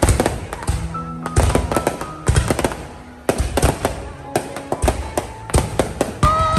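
Fireworks going off in a rapid, irregular volley of sharp bangs and crackles, easing briefly about halfway through, with music playing underneath.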